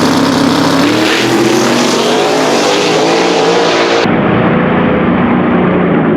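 Drag race car engine at full throttle, its pitch rising as it accelerates down the track. About four seconds in the sound cuts abruptly to a duller recording of engine noise.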